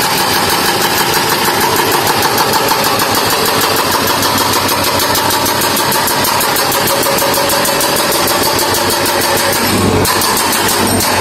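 An engine running steadily with a fast, even pulsing rattle, typical of heavy road-works machinery.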